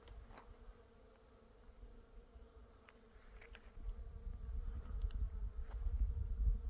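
Bees buzzing in a steady hum, typical of honeybees working blooming black locust trees. A low rumble grows louder from about four seconds in.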